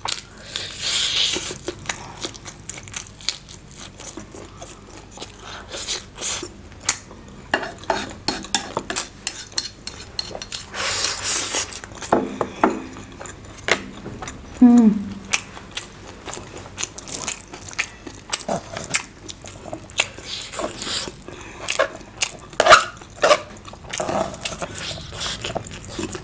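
Close-miked eating of a bowl of noodles: utensils clicking against the dish again and again, with chewing and a few longer slurping bursts, and a brief murmur from the eater near the middle.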